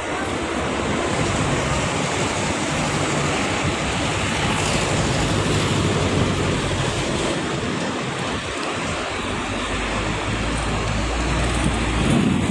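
Steady city street noise: a constant hiss with the low rumble of traffic engines, the rumble growing stronger near the end.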